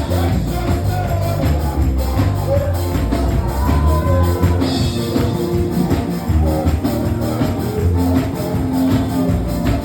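Live church worship music: a band playing with a heavy steady bass and a regular drum beat, with voices singing over it.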